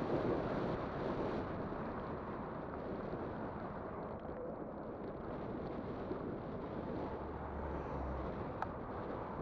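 Wind buffeting the microphone on a moving e-bike: a steady rushing noise, with one short click near the end.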